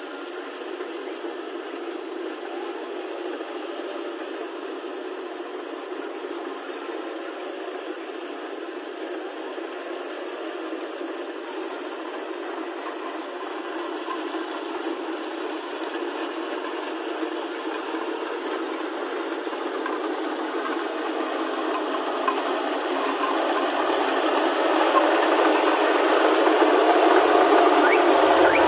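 Kubota rice combine harvester running, a steady engine and mechanical rattle, growing louder toward the end.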